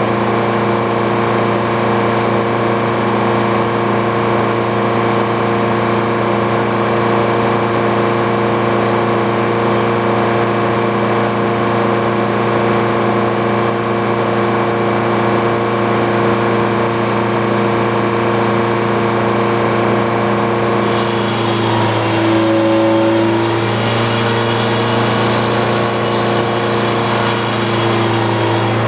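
Old Frick circular sawmill running, its power unit and blade turning at a steady pitch. About two-thirds of the way in, a rougher hiss joins and the pitch dips and wavers for a few seconds: the blade entering the log and the engine taking the load.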